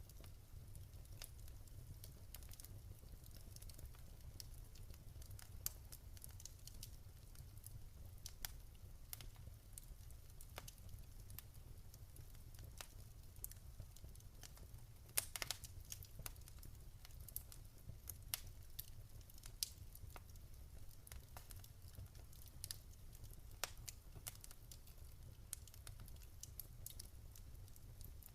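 Wood fire burning in a fireplace, crackling with irregular sharp pops over a low steady rumble. The loudest cluster of pops comes about halfway through.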